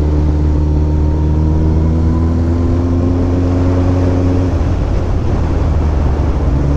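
Kawasaki Ninja ZX14R's inline-four engine running under way. Its pitch climbs slowly as it pulls, dips briefly about four and a half seconds in, then holds steady.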